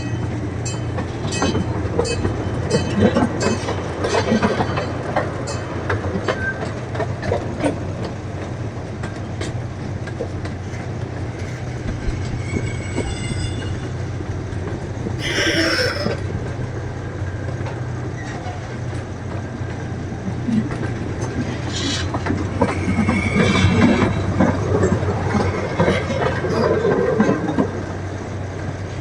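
Zoo train running on its track: a steady low hum with wheels clicking over the rail joints, and brief high wheel squeals a few times.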